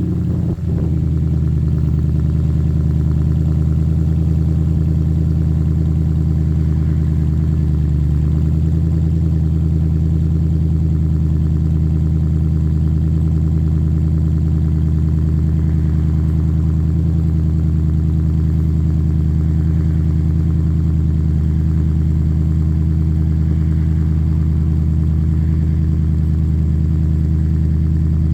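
2010 Audi S5 engine idling steadily just after a cold start, with a slight shift in its note about eight seconds in.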